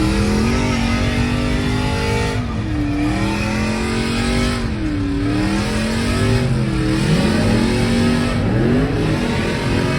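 A vehicle engine revving up and down about four times, the pitch climbing and dropping back every couple of seconds.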